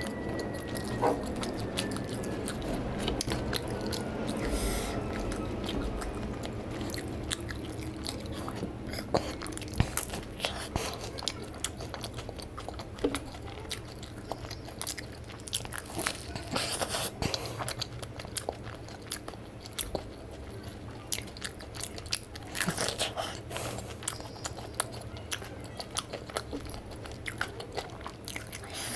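Close-up eating sounds: a man chewing and biting into a crisp deep-fried snack dipped in chutney, with crunchy bites and wet mouth noises, coming in louder clusters several times.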